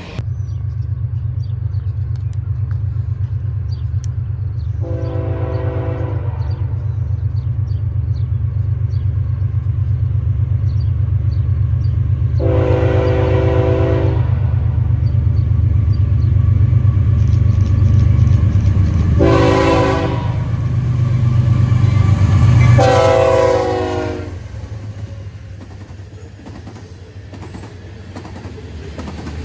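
Diesel freight locomotive running past with engines droning, sounding its multi-chime air horn in the grade-crossing pattern: two long blasts, a short one, then a long one. The engine sound peaks as the locomotive passes near the last blast and then falls away to the train's cars rolling by.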